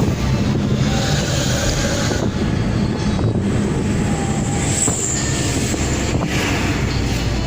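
Daihatsu Gran Max van running through its modified exhaust: a steady low drone under an even hiss, an exhaust note meant to sound like a big night bus.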